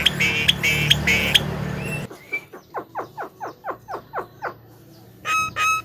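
Javan myna giving loud, harsh pitched calls over a low background hum. About two seconds in the sound changes abruptly to a quick run of falling chirps, about four a second. Near the end, evenly spaced pitched pulses start in a steady rhythm.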